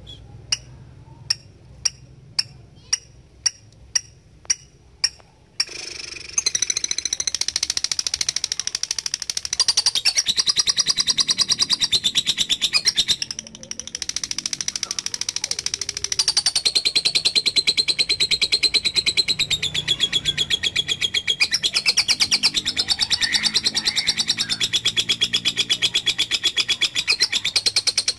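Lovebird calling: about ten short sharp chirps half a second apart, then a long, very rapid high-pitched chattering trill (the 'ngekek panjang' of a male lovebird in full song), broken only briefly about halfway through.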